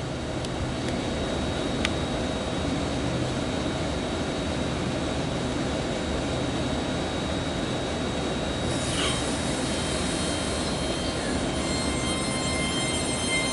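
TransPennine Express Class 802 train running slowly past, a steady rumble and hiss of its wheels and underfloor equipment. A short falling squeal comes about two thirds in, and a few steady high squealing tones set in near the end.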